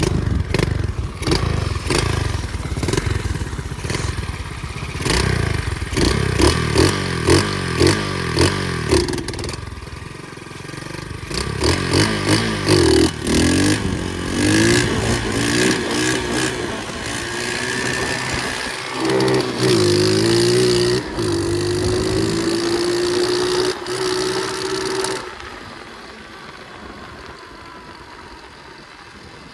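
Flywing pit bike engine being ridden, its pitch rising and falling as the throttle is opened and closed, with many short knocks in the first half. About 25 seconds in, the engine note drops away and it goes much quieter.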